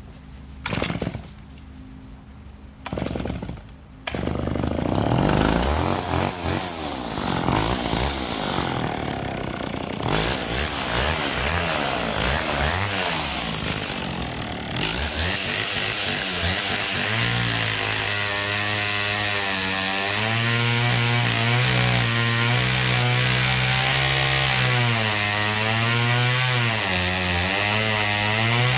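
Two-stroke chainsaw starting: two short bursts, then it catches about four seconds in and revs unevenly. From about fifteen seconds it runs at high revs with the pitch sagging and recovering, as when cutting through wood.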